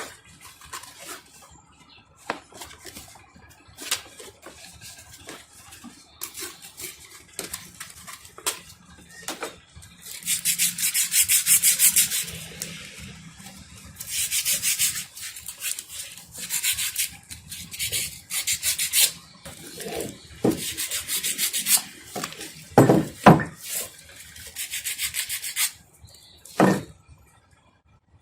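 Abrasive hand scrubbing on a starter part, in several spells of rapid back-and-forth strokes, with a few knocks near the end.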